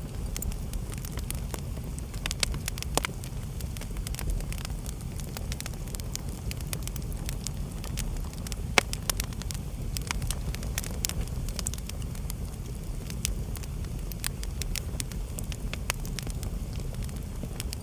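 Wood fire in a fireplace crackling, with irregular sharp pops and snaps over a steady low rumble; one pop stands out about nine seconds in.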